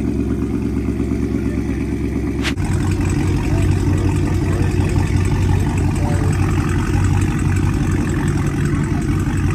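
A car engine idling loudly and steadily. About two and a half seconds in, an abrupt cut gives way to a different engine idling, a little louder.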